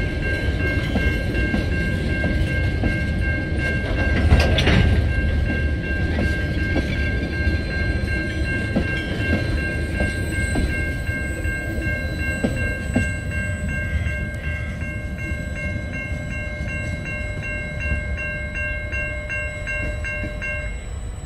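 Empty cement hopper wagons of a freight train rolling past a level crossing: steady rumble and wheel clatter, with one loud clank about four and a half seconds in. The crossing's warning bell rings over it and cuts off just before the end as the last wagon clears the crossing.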